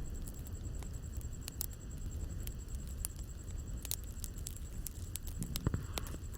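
Bonfire burning, with irregular sharp crackles and pops of burning wood over a low rumble of flames. A thin steady high tone runs underneath.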